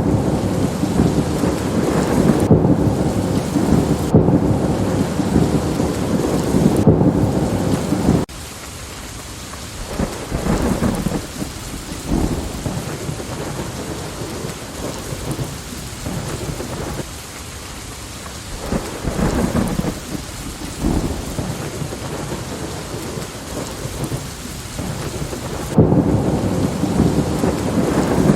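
Steady rain with thunder rumbling. A heavy, continuous rumble cuts off abruptly about eight seconds in, leaving the rain with fainter rumbles that swell and fade now and then. The heavy rumble comes back just as abruptly near the end.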